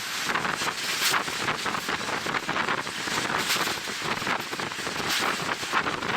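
Wind from a moving train buffeting the microphone: a steady, gusting rush of wind noise.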